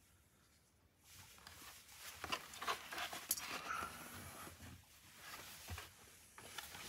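Rustling, scraping and clicking of a motorcycle helmet's padded fabric lining and plastic parts being handled and pressed back into place over newly fitted intercom speakers. This comes in irregular bursts that start about a second in.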